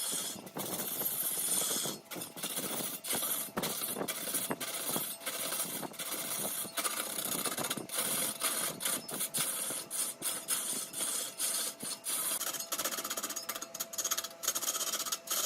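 Turning tool cutting wood spinning on a lathe: a continuous hissing scrape, broken by many brief gaps as the cut catches and eases, over a faint steady hum.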